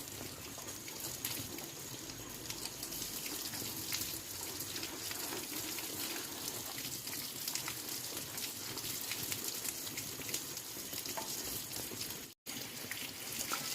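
Water running and splashing steadily, with a short break about twelve seconds in.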